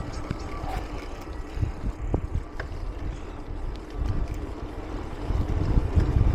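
Wind buffeting the microphone over the low rumble of a mountain bike rolling on a rough trail, with scattered knocks and rattles from the bike.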